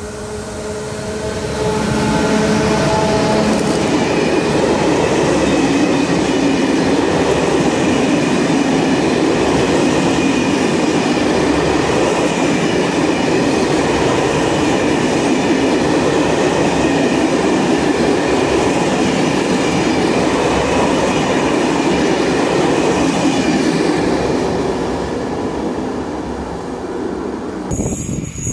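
A train passing close by, rising quickly, then a long steady rush of wheel and rail noise for about twenty seconds, fading away near the end before it cuts off.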